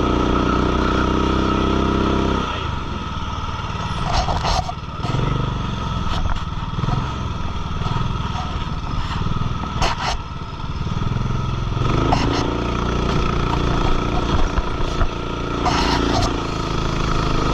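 Racing kart engine heard onboard: held at high revs for the first couple of seconds, then off the throttle for a long stretch with a few sharp knocks and rattles from the chassis, then pulling hard again with rising pitch from about twelve seconds in.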